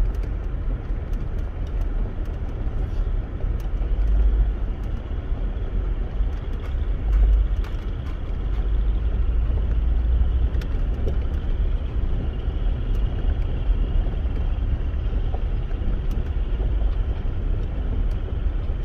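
Low, steady rumble of a car with its window open, with a chorus of marsh frogs calling faintly and continuously behind it.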